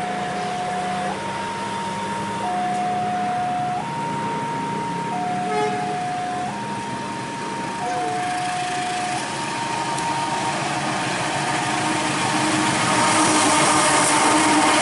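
Electronic two-tone warning alarm, sounding one steady tone that switches between a low and a higher pitch about every 1.3 seconds, until it stops about ten seconds in. Near the end a rushing noise grows louder as a train's noise builds.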